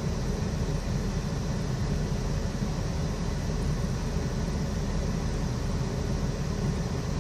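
Steady background rumble and hiss, with no distinct events and no change throughout.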